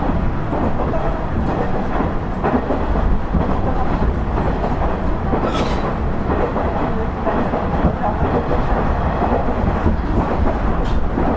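KiHa 110-series (KiHa 112) diesel railcar running along the line: a steady rumble of wheels on rail, with a few sharp clicks from the track, the strongest about halfway through.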